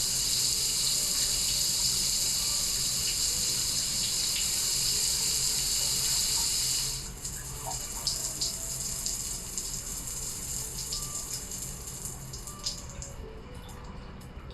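Spa shower spraying steadily, then shut off abruptly about halfway through, leaving scattered drips and small taps.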